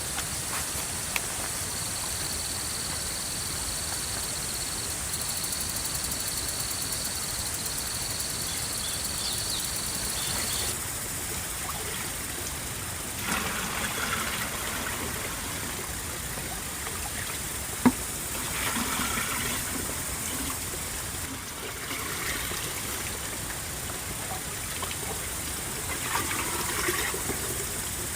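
Water trickling and splashing steadily, with a few louder stretches and one sharp knock partway through.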